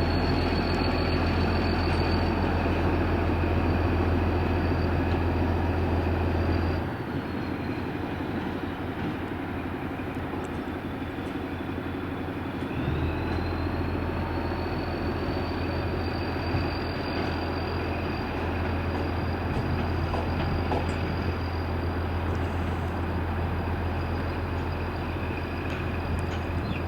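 A train at the station gives a steady low electrical hum with a high whine above it. About seven seconds in the hum cuts out and the whine drops in pitch; about six seconds later the hum comes back and the whine rises again, like auxiliary equipment switching off and starting up.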